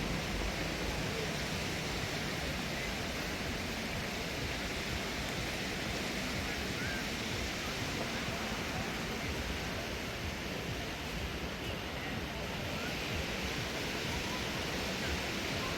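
Surf washing onto a sandy beach: a steady, even rush of waves.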